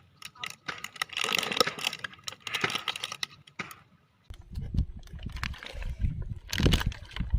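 Quick clicks and crinkling handling noise, then from about four seconds in a heavy low rumbling noise.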